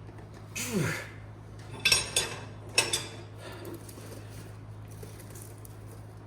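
Steel wrenches clanking twice, about two and three seconds in, each strike ringing briefly, while two wrenches are doubled up to tighten a truck bolt. Near the start there is a short strained groan that falls in pitch. A steady low hum runs underneath.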